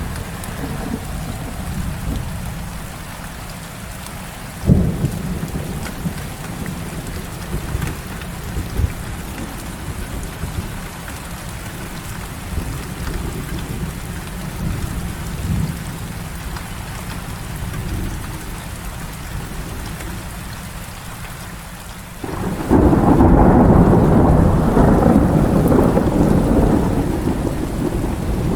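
Heavy rain falling steadily with low rumbling thunder. A sharp crack of thunder comes about five seconds in, and a much louder, sustained thunder rumble breaks suddenly near the end.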